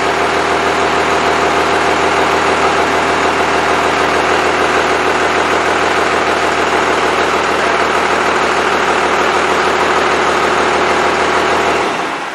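Freshly rebuilt Cummins 5.9L 12-valve inline-six turbodiesel idling steadily, then shut off near the end, the running sound dying away over about a second.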